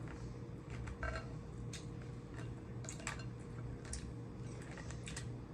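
A person chewing food, with scattered short wet clicks and smacks of eating every second or so over a low steady hum.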